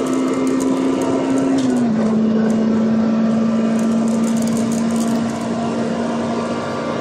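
Honda B-series VTEC inline-four engine running at steady high revs, its pitch dipping slightly about two seconds in and then holding steady.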